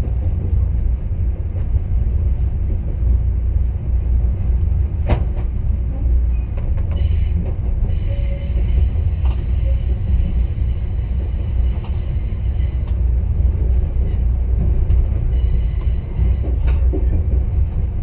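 Passenger train rolling along the track with a steady low rumble of wheels on rail. A high-pitched wheel squeal sets in about seven seconds in, holds for several seconds, and returns briefly near the end, with a single sharp knock before it.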